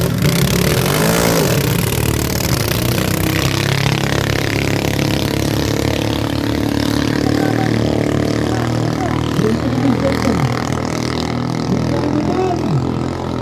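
Racing boat engines running at high revs: a loud, steady drone of several engine tones. About a second in, the pitch sweeps, and short rising and falling pitch glides come later.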